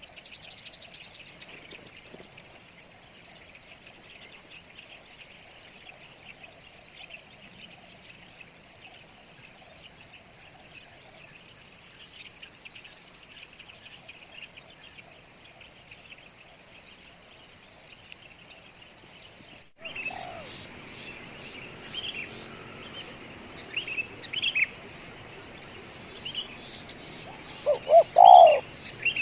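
Steady high insect drone with scattered small-bird chirps, abruptly louder about two-thirds of the way through. Near the end a spotted dove (tekukur) gives a loud coo of a few short notes, the call of the decoy bird set out to lure wild doves.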